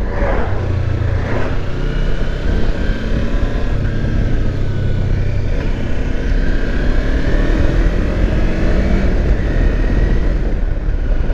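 Kawasaki Versys X 300's parallel-twin engine running under way, heard with wind and road noise. The engine note climbs in pitch partway through.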